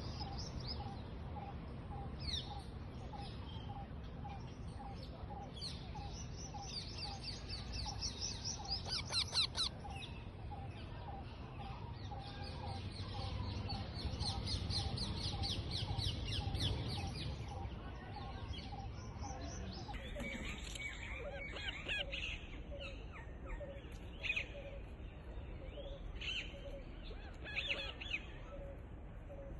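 Parrots chirping, with long runs of rapid shrill calls and scattered single calls. A regular low note repeats about twice a second in the background.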